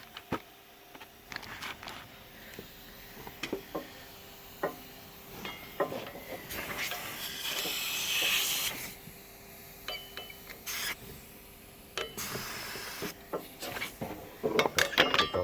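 Light clicks and knocks of engine parts being handled, with a stretch of hissing, rustling noise about seven to nine seconds in and a shorter one about twelve seconds in.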